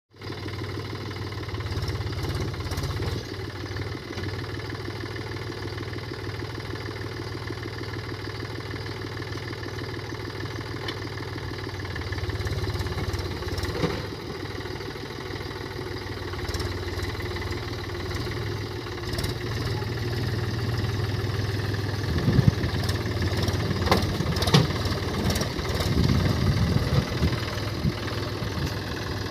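Mahindra tractor's diesel engine running steadily at low revs, with a few sharp knocks and bangs near the end.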